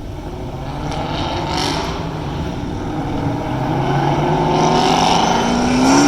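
Muscle car engines running in slow, backed-up traffic, with one engine revving up, its pitch rising near the end.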